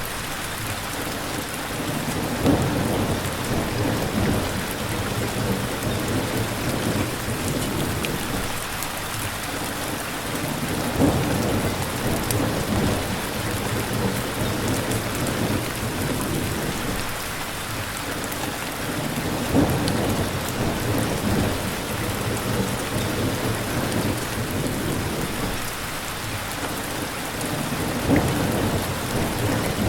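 Steady heavy rain with low thunder-like rumbles that swell and fade, recurring about every eight and a half seconds.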